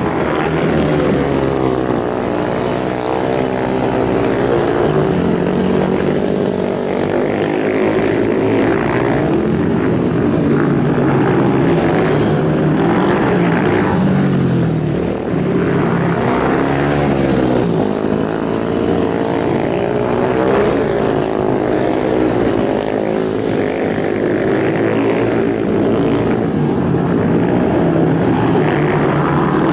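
Several superbike engines running hard together, their pitches rising and falling and overlapping without a break.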